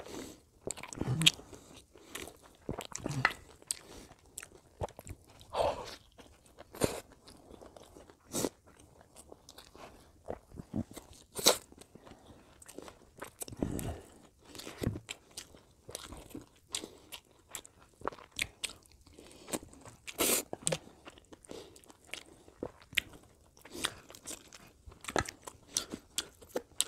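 Close-miked chewing and biting as a man eats lamb curry and rice with his fingers: wet mouth sounds broken by irregular sharp crunches and smacks, a few of them much louder than the rest.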